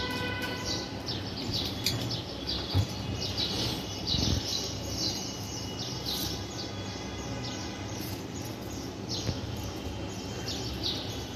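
Pet budgerigars chirping, a steady stream of short high chirps, over a low background hum.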